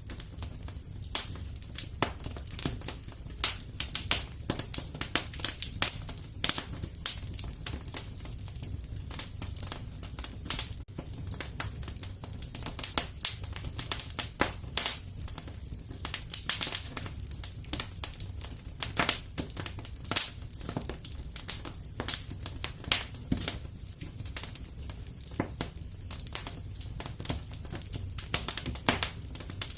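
Wood fire in a fireplace crackling: irregular sharp pops and snaps several times a second over a steady low rumble.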